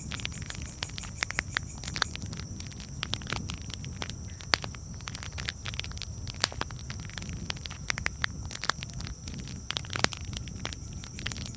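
Campfire crackling: irregular sharp pops and snaps over a steady low rumble of burning, with a few louder pops about four and a half seconds and ten seconds in.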